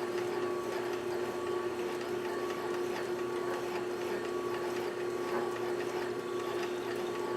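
Juki DDL-8300N industrial lockstitch sewing machine running at a slow, steady speed while winding a bobbin: an even mechanical hum with a constant tone.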